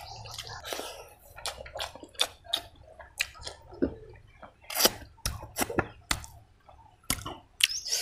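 Close-up wet chewing and lip smacking of a mouthful of rice and pork curry eaten by hand, a quick run of sharp mouth clicks and squelches with the loudest smacks a little before the halfway point.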